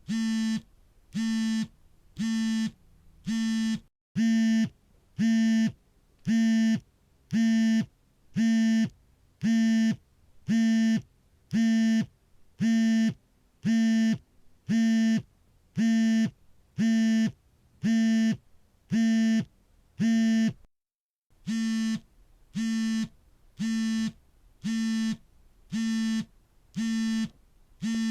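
Smartphone vibrating for an incoming call: short, even buzzing pulses, about one and a half a second, each a steady pitched buzz. The rhythm breaks off briefly twice.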